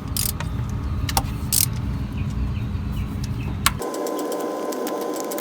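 Ratchet wrench with an extension and deep socket working the distributor hold-down bolts of a Honda CR-V's engine, giving scattered clicks over a low rumble. Near the end the rumble cuts off suddenly and a quicker run of clicks goes on over a steady hum.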